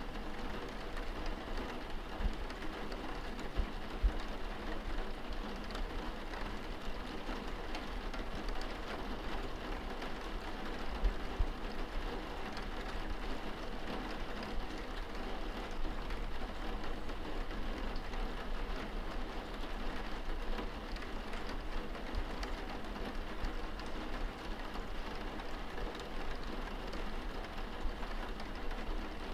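Rain on window glass heard from indoors: a steady patter of drops, with a few soft low thumps now and then.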